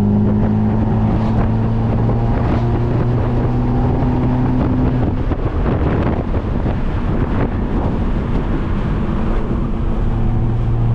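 Turbocharged, straight-piped Mercedes-Benz C250 exhaust droning steadily at cruise, with wind and road noise. The drone eases off about halfway through and comes back near the end.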